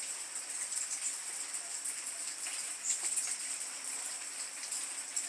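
Steady high-pitched outdoor chirring, with a few brief high chirps standing out about three seconds in and again at the end.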